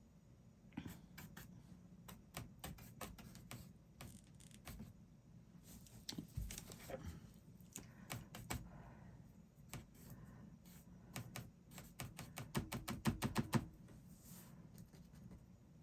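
Fan brush tapping and dabbing paint onto a canvas: scattered soft taps, then a quick run of about ten taps a second near the end.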